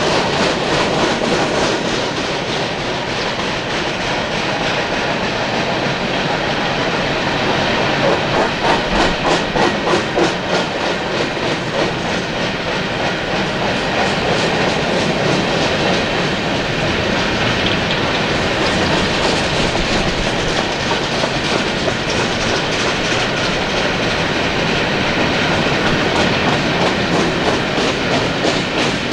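Loaded-train hopper cars of a Union Pacific coal train rolling past: a steady rumble and rail noise, with runs of rhythmic wheel clicks a third of the way in and again near the end.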